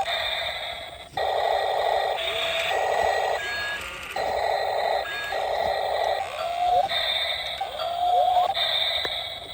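Small electric motor of a toy excavator whirring in a series of short on-off runs. The pitch rises quickly as some runs start.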